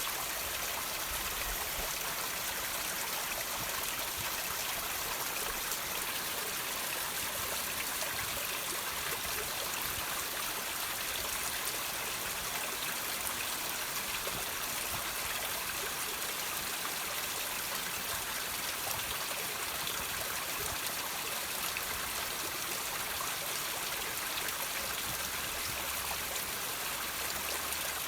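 Water trickling and dripping over rocks, a steady, even rush of running water.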